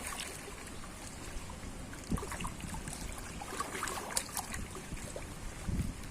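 Sea water lapping and trickling with wind on the microphone, broken by a few small clicks and a couple of low thuds.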